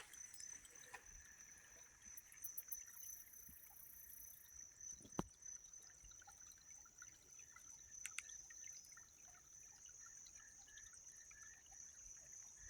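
Near silence: a faint, steady, high-pitched insect trill, with a faint trickle of creek water and a single sharp click about five seconds in.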